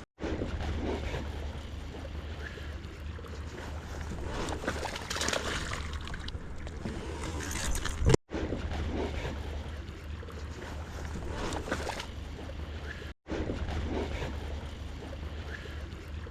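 Wind rumbling on the microphone over a steady wash of rain and water around a small fishing boat. The sound cuts out abruptly twice, about 8 and 13 seconds in.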